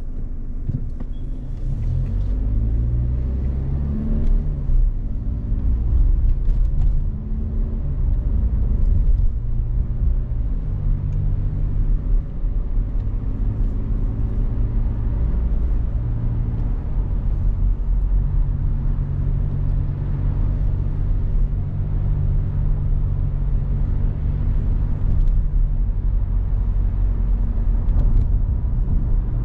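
Car driving on the road, heard from inside the cabin: a steady low engine and road rumble whose pitch shifts a few times as the car changes speed.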